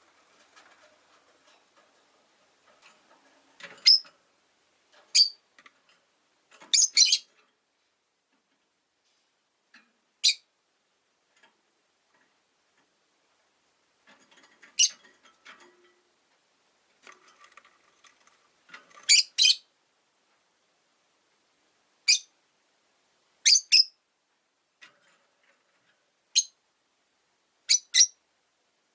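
Rosy-faced lovebirds giving short, sharp, shrill chirps, often in quick pairs, scattered with pauses between them, with soft chattering in the gaps.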